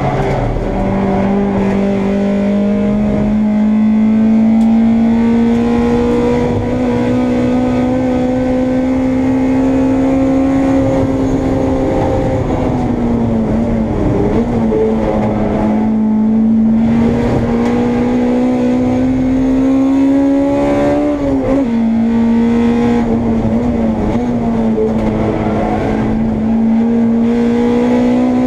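Honda Integra race car's four-cylinder engine heard from inside the car at racing speed, its pitch climbing slowly as it pulls hard along a straight. About twelve seconds in and again about twenty-one seconds in the pitch drops with short wobbles as the car slows and changes down for a corner, then climbs again.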